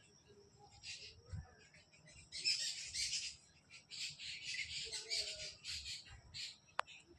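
Birds calling in a run of harsh, squawking bursts for several seconds, followed by a single sharp click near the end.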